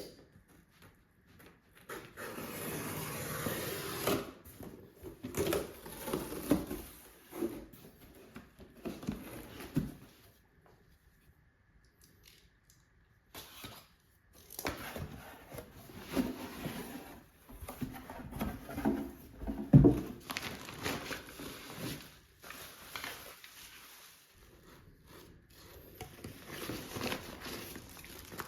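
Irregular household handling noises: soft knocks, clatter and rustling of objects being moved, with one sharper knock about two-thirds of the way through and a quiet pause in the middle.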